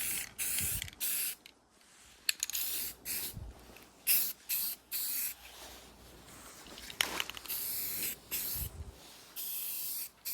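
A series of short hissing spray bursts, about a dozen, each lasting well under a second with brief gaps between them, and a sharp click about seven seconds in.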